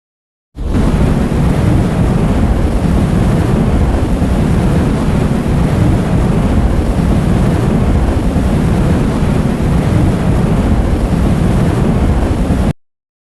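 A loud, steady rumbling noise with no clear pitch, heaviest in the low end, that starts abruptly about half a second in and cuts off suddenly near the end: a modified sound clip.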